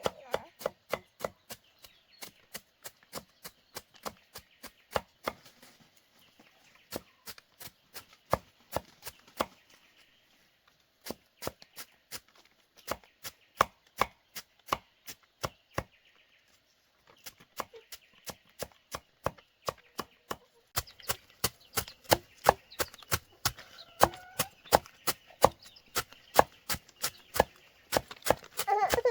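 Rapid, repeated chopping strikes of a blade on a cutting board, about three a second, in runs broken by short pauses.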